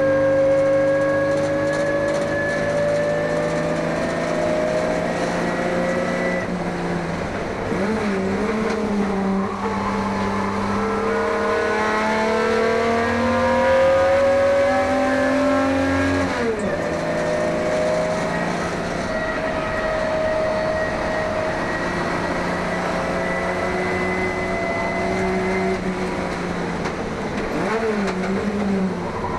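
1971 HQ Holden race car's engine under racing load, its pitch climbing steadily and then dropping sharply at gear changes or braking several times.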